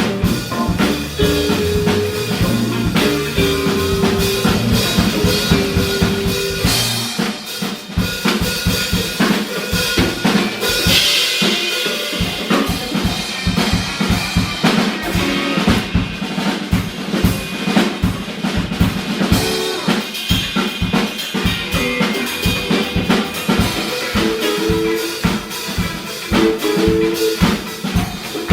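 Live jazz-funk band with a busy drum kit, snare and bass drum, to the fore. For about the first seven seconds the bass and chords play along, then the bass drops out and the drums carry a break, with keyboard or guitar figures coming back in near the end.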